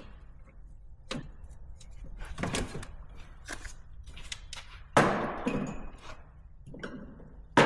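A few light clicks and knocks, then two loud bangs with a short ringing tail, one about five seconds in and one near the end.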